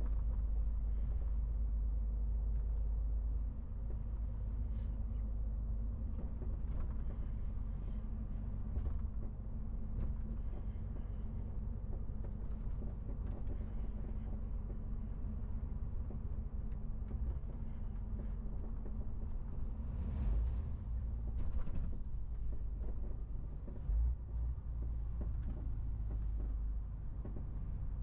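MAN TGX 18.470 truck's six-cylinder diesel engine running with road noise while driving: a steady low rumble, with a few faint brief clicks and rattles.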